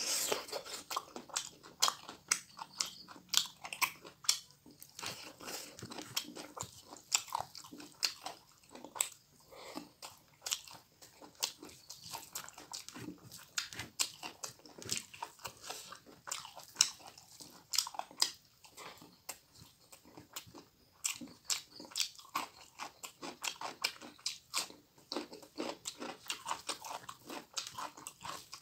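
Close-miked chewing and crunching of fried pork and rice, a dense, irregular run of sharp wet mouth clicks.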